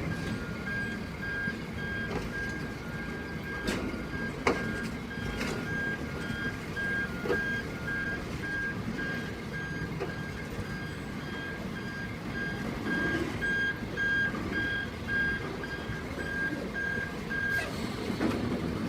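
Vehicle reversing alarm beeping steadily, about two to three beeps a second, over a low engine rumble with a few sharp knocks. A second, slightly lower-pitched alarm beeps alongside it through about the first half, and the beeping stops shortly before the end.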